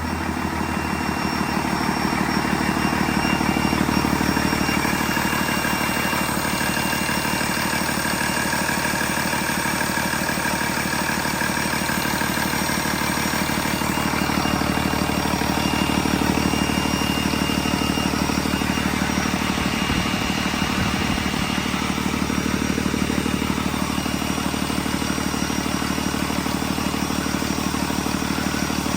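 2008 Cummins ISB 6.7-litre inline-six turbo diesel running steadily at idle.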